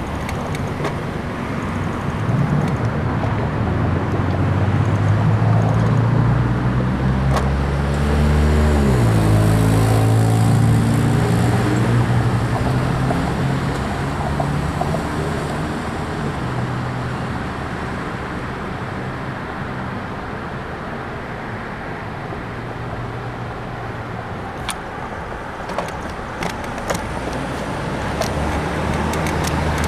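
Road traffic heard from a moving bicycle: a motor vehicle passes about nine seconds in, its engine pitch falling as it goes by, over steady road and wind noise. A few sharp clicks come near the end.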